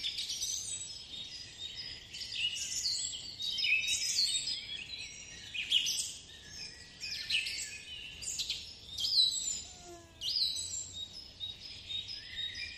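Songbirds chirping and singing, a dense overlapping chorus of short high chirps and whistles, with a brief lull about ten seconds in.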